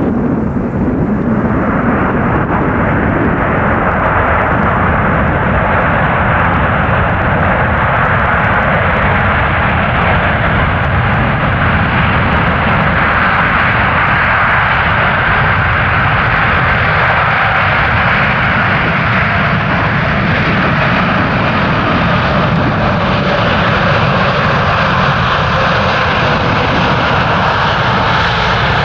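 Loud, steady jet noise from a Boeing 747-8 freighter's four GEnx turbofan engines as the jumbo lands, the noise slowly growing brighter and higher over the span.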